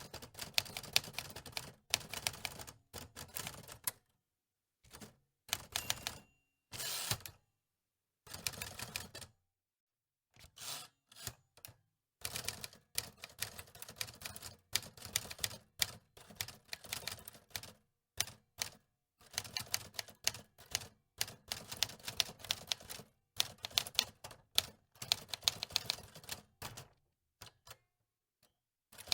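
Antique typewriter keys clacking in quick runs of strikes, broken by several short pauses.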